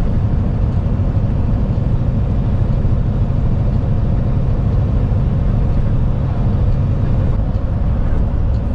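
Truck driving along at steady speed: an even, low engine drone mixed with road noise.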